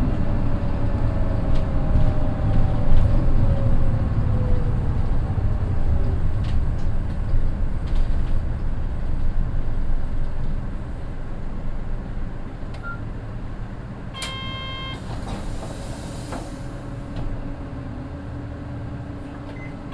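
Interior running sound of a Mitsubishi Fuso Aero Midi bus with a naturally aspirated 6M61 diesel and DD5M gearbox. The bus slows with a falling gear whine and engine note, then settles to a quieter steady engine hum. About two-thirds through, a short electronic chime sounds, followed by a brief hiss of air.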